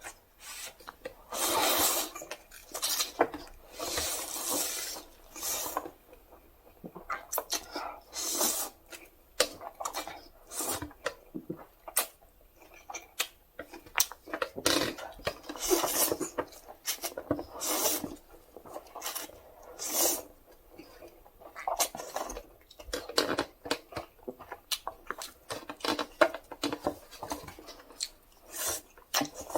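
Utensils clicking and scraping against a jumbo Dosirak instant-noodle cup, with irregular short rustling and scraping bursts as the noodles are handled.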